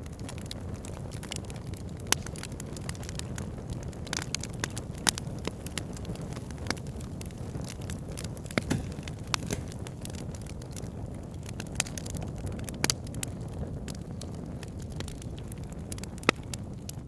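Wood fire burning in a fireplace: a steady low rush of flames with scattered sharp crackles and pops, a few louder snaps among them.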